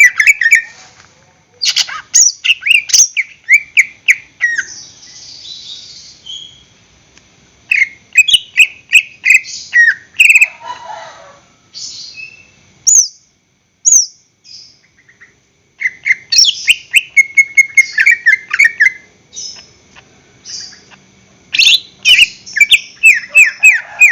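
Cucak ijo (green leafbird) singing in loud bursts of rapid, clipped, repeated notes and chattering phrases, broken by short pauses.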